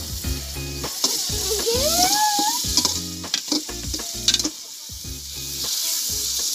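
Chicken skin sizzling as it fries in an aluminium pot, with a metal ladle stirring and repeatedly clicking and scraping against the pot's sides.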